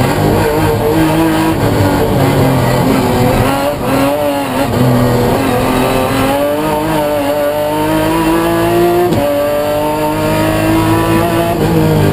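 BMW M3 racing engine under hard acceleration. Its pitch climbs steadily through each gear and falls back at upshifts about four seconds in and again about nine seconds in.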